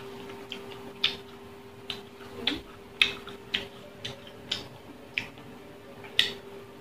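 Close-miked chewing of crisp raw green mango: sharp, irregular crunches about twice a second over a faint steady hum.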